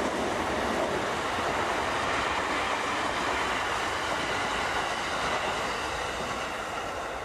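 Electric commuter train, a Yamanote Line E231 series, running past on steel rails: a steady rush of wheels on track with a faint high ringing tone, easing off a little near the end as the last cars go by.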